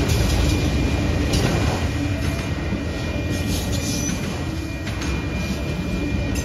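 Autorack freight cars rolling past close by: a steady low rumble of steel wheels on the rails, with a faint thin high whine running underneath.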